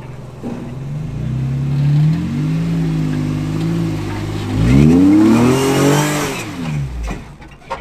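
Off-road vehicle's engine revving. The revs build, then climb sharply about four and a half seconds in and drop back near seven seconds in.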